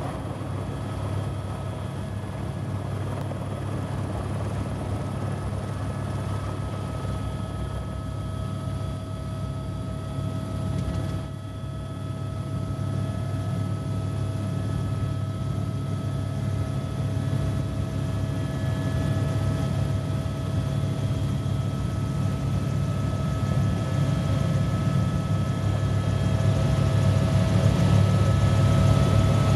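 Helicopter running at take-off: the steady chop of the rotor blades over a constant turbine whine, slowly getting louder toward the end.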